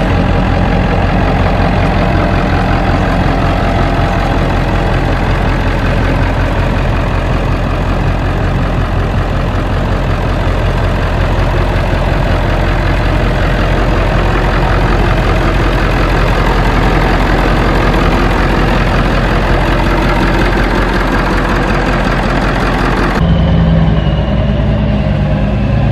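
A vehicle engine running steadily and loud at a fairly constant speed. About 23 seconds in, the sound changes abruptly to a lower, duller engine note.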